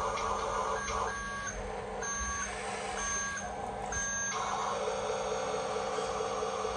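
Toy RC dump truck's electric motor and gears whining, broken by four short electronic reversing beeps about once a second, after which the motor whine picks up again.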